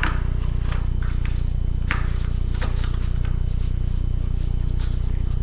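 Small clicks and scrapes of hands and a tool working inside an old laptop, pulling at wires and parts, scattered irregularly over a steady low hum.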